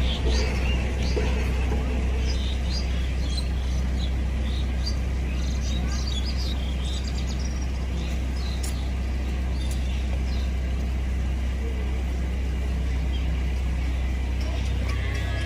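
Small birds chirping in many short high calls over a steady low rumble.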